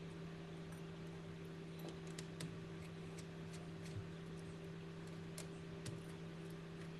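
Scattered light clicks and taps, a few a second at times, over a steady low electrical hum: small hard objects being handled at an electronics repair bench.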